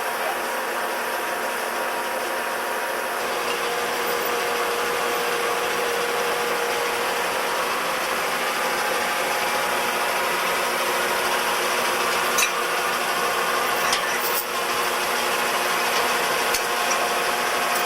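REED A40HP concrete pump running steadily, its engine and hydraulics giving a constant mechanical drone with a hiss. A few sharp clicks come late on.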